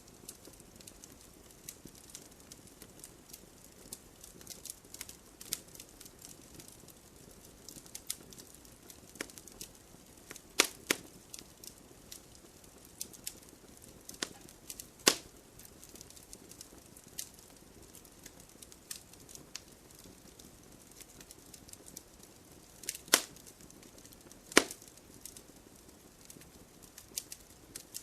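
Wood campfire crackling: a faint steady hiss under a stream of small irregular pops, with a handful of sharper, louder snaps scattered through.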